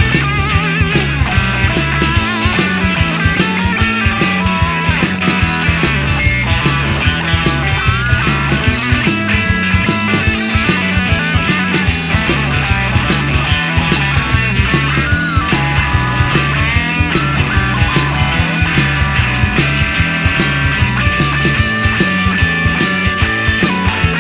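Instrumental break in a blues-rock song: electric guitar playing bending lead lines over a repeating bass figure and drums, with no vocals.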